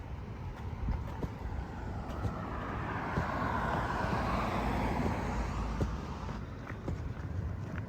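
A car passing by on the street: its tyre and engine noise swells from about a second in, is loudest around the middle, and fades away, with footsteps on pavement underneath.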